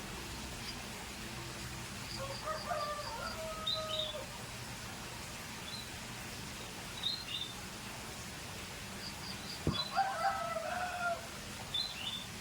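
Canary giving short, high chirps and quick trills, and twice a louder, longer call of several held, lower notes, about two seconds in and again near the end; a sharp click comes just before the second call.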